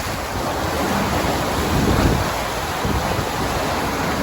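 Wind buffeting the microphone over the rush of open sea water: a loud, steady, even roar, swelling slightly about two seconds in.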